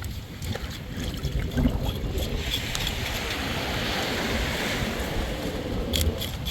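Steady wind and sea-water noise with a low rumble, and a few sharp clicks near the end.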